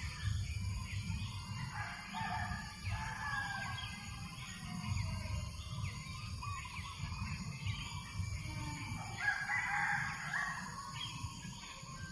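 A rooster crowing over many small birds chirping, with a steady low rumble of breeze on the microphone.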